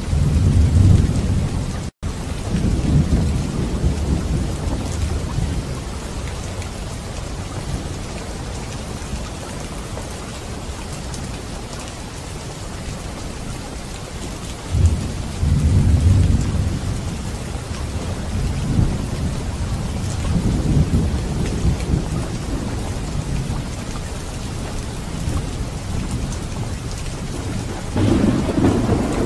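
Steady heavy rainfall hissing on the ground, with low rolls of thunder that swell and fade several times: near the start, around the middle and near the end. The sound cuts out for an instant about two seconds in.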